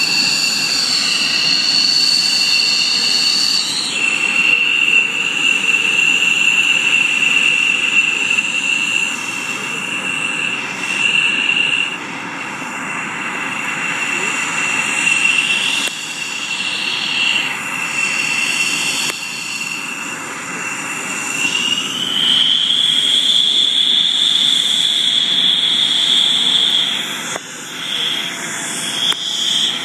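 F-16 jet engine running on the ground, a steady high turbine whine over a broad rushing noise. The whine steps up in pitch about two-thirds of the way through, as the engine is brought up a little.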